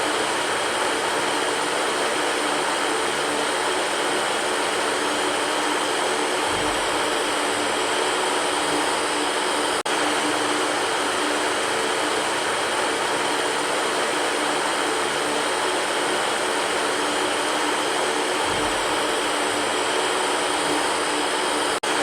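Electric fan running with a steady whoosh of air and a faint hum underneath. The sound cuts out for an instant about ten seconds in and again near the end.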